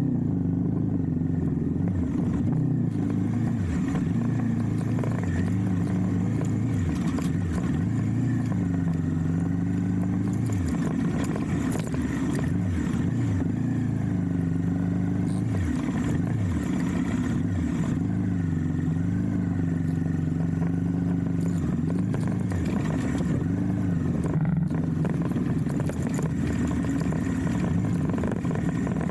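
Motorcycle engine running steadily under way, its pitch dipping and climbing again every few seconds as the throttle is eased off and opened up.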